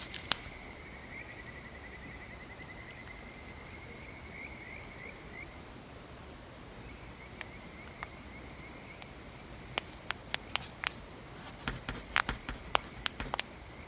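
Campfire ambience: burning wood crackles with sharp, irregular pops that cluster in the last few seconds. Under it, a thin, steady, high chirring trill runs through the first half and fades in again briefly.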